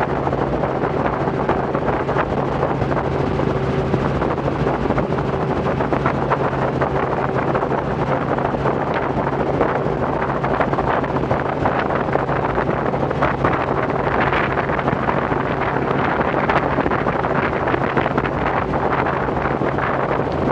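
Robinson R44 helicopter in cruise flight: the steady drone of its piston engine and rotor, with rushing wind noise over it.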